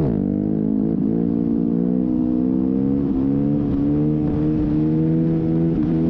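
Motorcycle engine running under way, its pitch climbing gradually, with brief drops at the start, about a second in, around three seconds and near the end as it shifts up through the gears.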